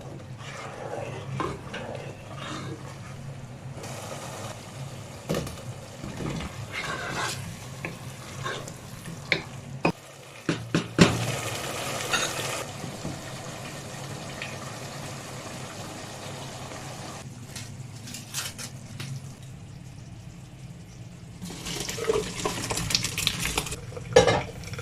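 Home kitchen cooking sounds: a utensil clinking and scraping in a pan with food sizzling, over a steady low hum. Several stretches of running water, as from a tap, come in between, with the longest near the end.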